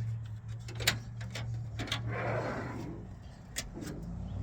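Handling noise as the camera is set in place: a few sharp clicks and a short rustle, over a steady low hum.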